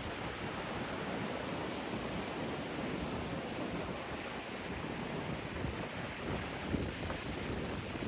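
Strong wind buffeting the microphone, with a steady rumble of surf behind it.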